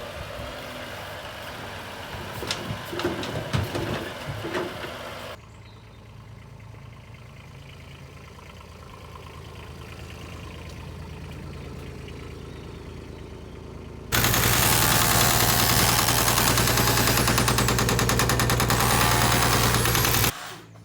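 Building-site machinery: knocks and clatter over a running engine, then after a cut a much louder engine running steadily for about six seconds before cutting off near the end.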